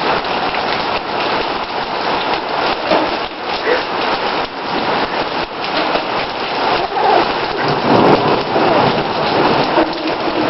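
Heavy rain falling steadily, a dense hiss of many drops striking hard surfaces, a little louder about eight seconds in.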